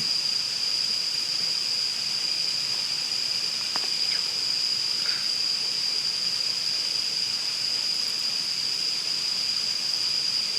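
Steady chorus of singing insects in the woods: one continuous high-pitched trill that does not let up, with a few faint ticks of handling.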